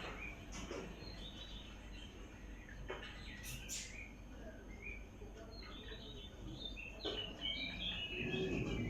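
Small birds chirping on and off, short quick calls over a low steady background hum.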